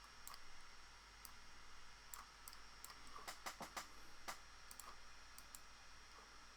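Faint computer mouse clicks, scattered, with a quick run of several clicks about three seconds in, over quiet room tone.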